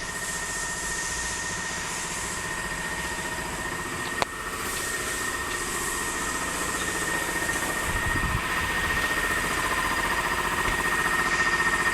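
Peugeot 3008 running at idle: a steady mechanical hum with a high steady whine, and a single sharp click about four seconds in.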